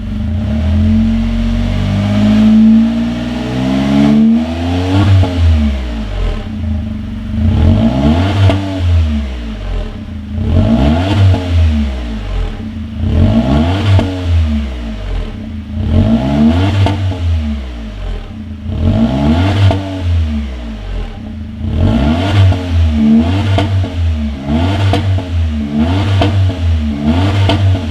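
Honda N-Box Custom's small three-cylinder engine sounding through a BLITZ NUR-SPEC stainless aftermarket exhaust, revved up and let fall back to idle over and over. The blips come about every three seconds at first and quicken to about one every second and a half near the end.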